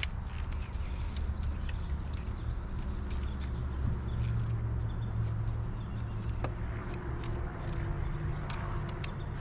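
Small birds chirping, with a rapid trill in the first few seconds, over a steady low rumble.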